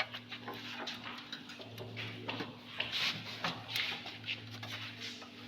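Scattered light clicks and taps of hand tools and metal parts being handled while a window air conditioner is taken apart, over a steady low hum.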